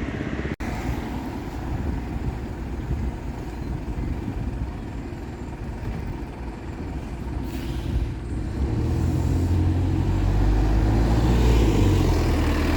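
Diesel bus engine running in street traffic, growing louder from about two-thirds of the way in as the bus draws close.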